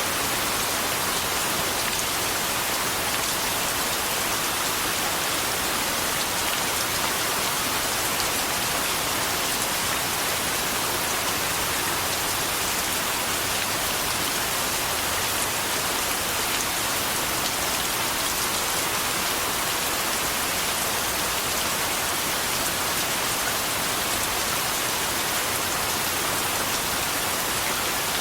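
Steady rain falling on a surface, an even hiss with no thunder or breaks.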